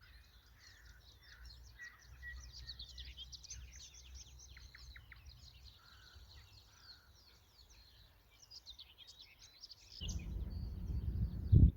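Several wild birds singing at once, a dense spring chorus of overlapping chirps and trills. Under it a low rumble grows much louder in the last two seconds and ends in a short thump.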